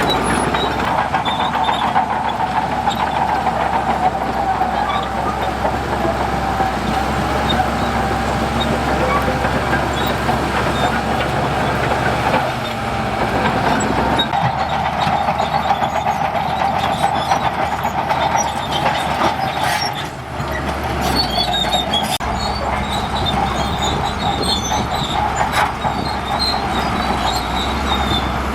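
Crawler bulldozer working: a diesel engine running steadily under load, with a steady squeal and clatter from its steel tracks. The sound dips briefly twice, about 12 and 20 seconds in.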